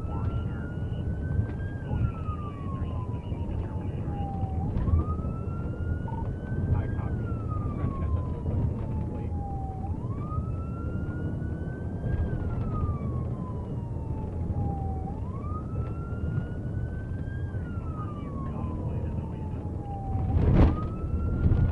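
Police siren on a slow wail, each cycle rising quickly and then falling over a few seconds, repeating about every five seconds, over a steady rumble of engine and road noise. A sharp thump near the end is the loudest moment.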